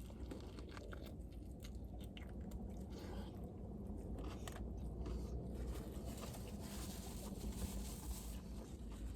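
Faint, close chewing of a crunchy fried chicken slider: small crunches and mouth sounds over a low steady hum.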